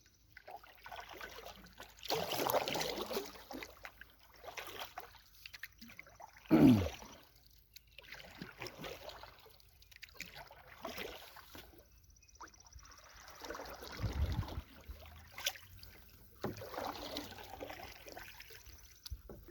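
Canoe paddle strokes in water: irregular splashes and drips every second or two, with one louder thud about six and a half seconds in.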